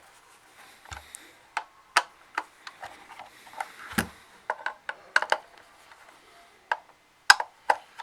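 Screwdriver tightening screws into a battery pack's case: a string of irregular sharp clicks and taps.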